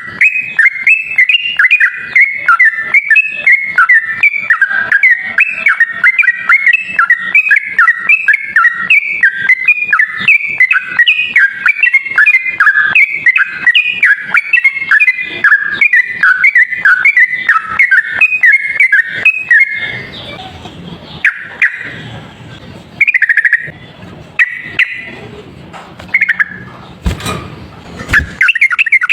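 Sooty-headed bulbul (trucuk) singing a rapid, unbroken run of short chattering notes in its 'ropel' song, used as a bird-trapping lure call. About twenty seconds in, the run breaks into a noisier stretch with scattered notes and a loud crackle, and the song starts again at the very end.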